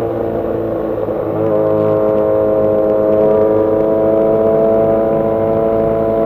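Motorcycle engine running while riding. The drone dips briefly, then settles into a steady pitch from about a second and a half in.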